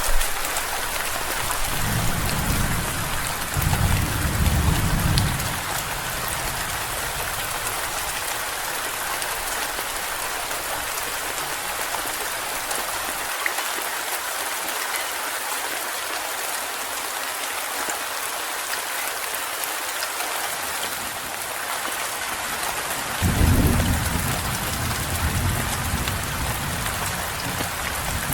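Steady rain falling hard, with low rolls of thunder: one rumble about two seconds in lasting a few seconds, and another that starts abruptly near the end.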